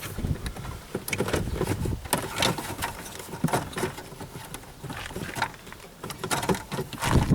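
Irregular clicks, taps and rattles of hand work on plastic dashboard parts and wiring while a car headlight switch is being fitted back into the dash.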